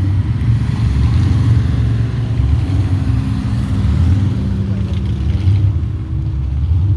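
Car engines with a steady low rumble as vehicles drive past.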